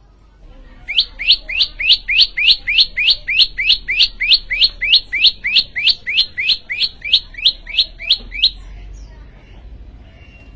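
Prenjak lumut (prinia) singing a long, rapid series of loud, evenly spaced notes, each sweeping upward in pitch, about three a second. The series stops abruptly about eight and a half seconds in.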